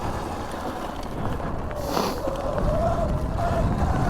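Sur-Ron electric dirt bike's motor whining while ridden, its pitch wavering up and down with the throttle, over low wind rumble on the microphone. A single thump sounds about two seconds in.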